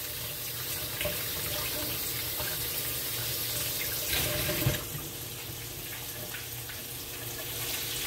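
Breaded zucchini fries frying in hot oil in a pan, a steady sizzling hiss, with a slightly louder stretch about four and a half seconds in as they are turned with tongs.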